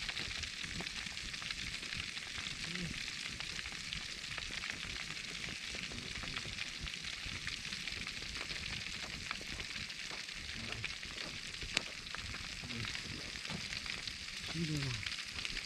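Whole pork belly wrapped in foil sizzling steadily in a wood fire, fat hissing, with scattered small pops and one sharper crackle about twelve seconds in.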